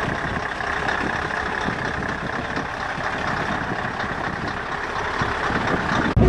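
Heavy truck engines running steadily. The sound cuts off abruptly near the end.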